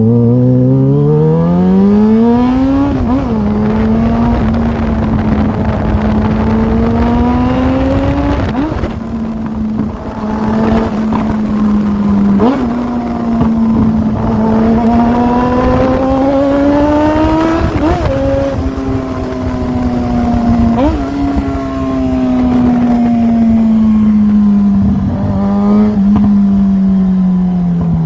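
Yamaha XJ6 600cc inline-four motorcycle engine accelerating hard from low revs in the first few seconds. It then rides at fairly steady revs, the note rising and falling, with a brief sharp blip at each of several gear changes. The revs drop off near the end.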